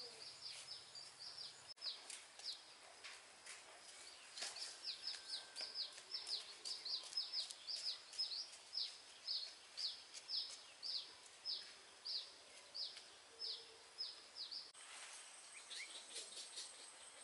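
A small bird calling a long series of short, high, down-slurred notes, about three a second, over faint outdoor background noise. The calls stop abruptly near the end, where a thin steady high whine takes over.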